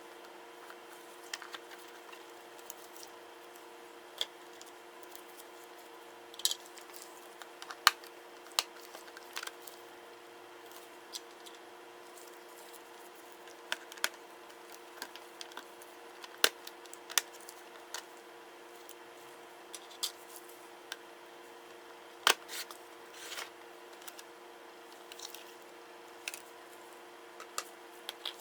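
Irregular sharp clicks and taps of small tools and plastic and metal laptop parts being handled during a Samsung NP-Q70 laptop teardown, a few a second at most with gaps between, over a steady faint electrical hum.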